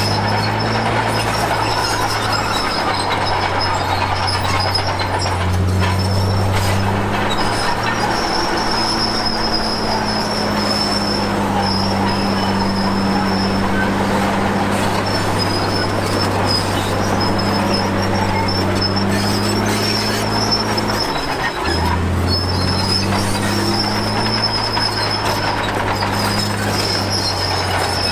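Komatsu D53P crawler bulldozer working, its diesel engine running under shifting load with a steady high metallic squeal over it. The engine note drops briefly about 21 seconds in, then picks up again.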